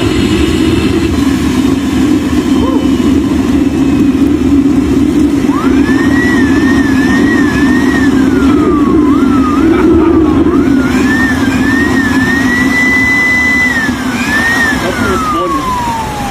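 Homemade jet engine running with a loud roar, its whine rising to a high pitch about five seconds in, wavering, sliding down, then rising again, holding and falling away near the end as the throttle is worked.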